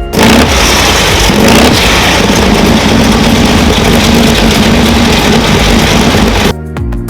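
A car engine running loud and close. It cuts in abruptly just after the start and stops sharply near the end.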